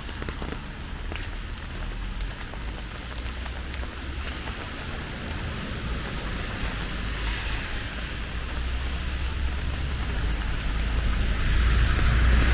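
Steady rain falling on surfaces, an even hiss, with a low rumble underneath that grows louder near the end.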